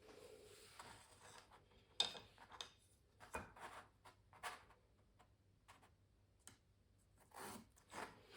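Pencil on canvas: short, quiet scratchy strokes broken by light taps and clicks, the sharpest click about two seconds in.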